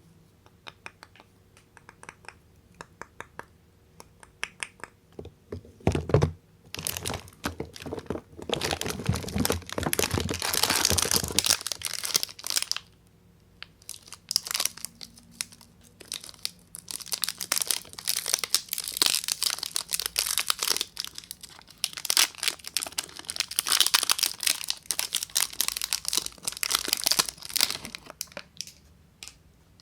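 Soap packaging being unwrapped by hand: the wrapper crinkles and tears in long dense spells, after a few seconds of light ticking handling at the start and with a short pause about halfway through.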